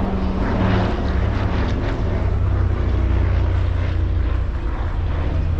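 Consolidated PBY-5A Catalina flying boat with its two radial engines running, a steady low propeller drone.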